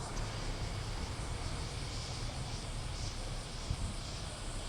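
Steady outdoor background noise: a low rumble with an even hiss over it, with no single event standing out.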